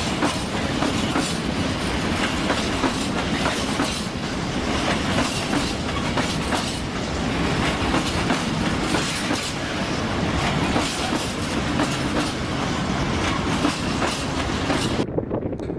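A train passing close by, its wheels clattering steadily over rail joints, under a constant rumble and hiss. The sound cuts off abruptly near the end.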